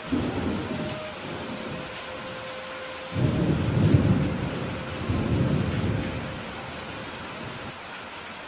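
Steady rain hissing, with thunder rumbling over it: a short roll right at the start, then a louder, longer rumble about three seconds in that rolls on and fades out around six seconds.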